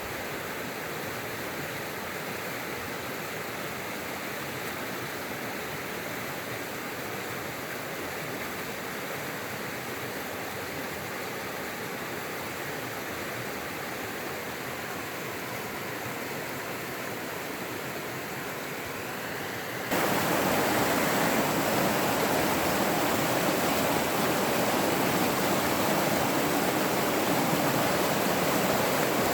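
Running water rushing steadily. About twenty seconds in it jumps suddenly louder and fuller, then stays steady.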